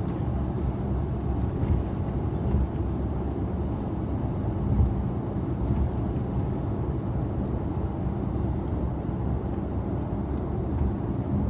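Steady road and engine noise inside a moving vehicle's cabin: an even low rumble with a faint hum.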